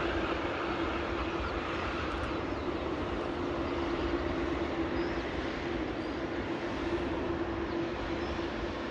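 Jet airliner engines, the Air Canada aircraft, running with a steady rush and a low steady hum.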